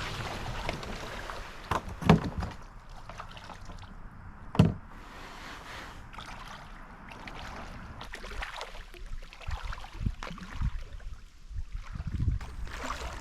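A plastic sit-on-top kayak being paddled: water splashing and dripping from the paddle, with two loud sharp knocks, like the paddle striking the hull, in the first five seconds.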